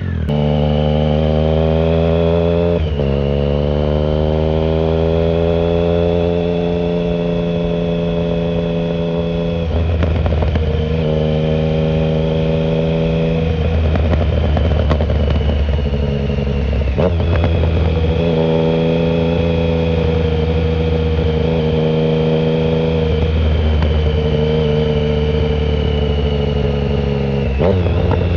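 2009 Triumph Speed Triple 1050 inline-three running through a shorty Competition Werkes exhaust with no silencer, heard from the rider's pocket on the move. The loud engine note rises and falls, with a handful of sudden breaks where the pitch jumps.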